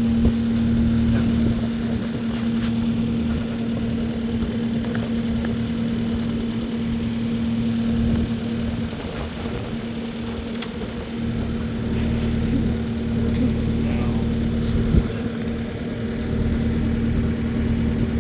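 An engine idling steadily, with light clanks and one sharper knock near the end.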